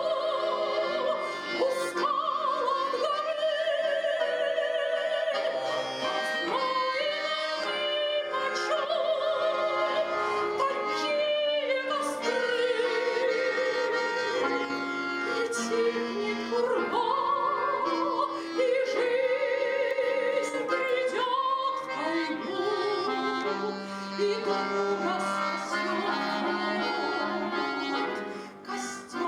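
A woman singing a slow song with a wide vibrato on long held notes, over sustained instrumental accompaniment.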